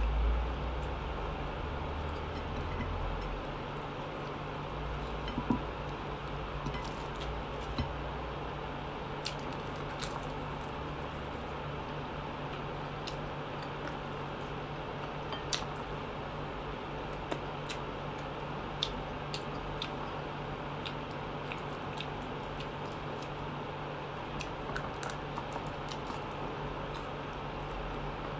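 Close-up eating sounds of fried chicken being chewed and pulled apart by hand: scattered wet mouth clicks and smacks throughout, over a steady low hum.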